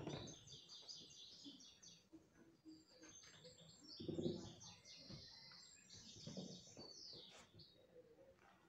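Faint chirping and twittering of small birds in quick runs of short high notes, with a low muffled bump about four seconds in.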